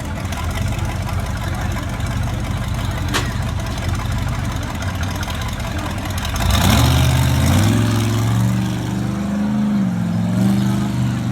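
Monster truck engine running under the riders, a steady low rumble that revs up about six and a half seconds in and holds at the higher, louder note.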